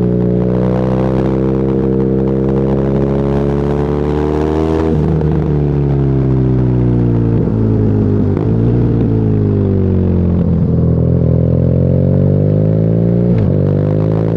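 BMW R nineT's boxer twin through an Akrapovic exhaust, accelerating with the pitch rising for about five seconds, then rolling off the throttle so the engine note falls for several seconds, broken by a couple of short blips. It then pulls again, rising in pitch, with a brief break for a gear change near the end.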